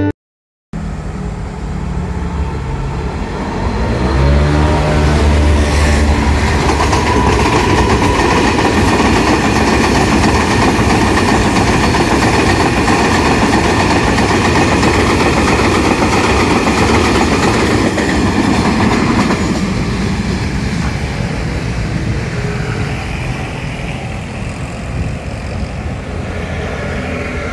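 Train running past on the rails, with a rising whine about four seconds in, then a steady loud rumble and rush that eases somewhat in the last several seconds.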